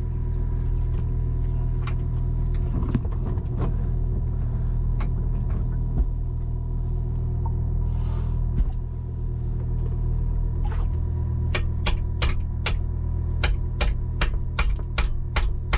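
A steady low drone throughout, with scattered sharp taps, then from about ten seconds in a run of sharp metal strikes, two or three a second. They are hammer blows on a chisel, working a corroded Lewmar V1 anchor windlass motor loose.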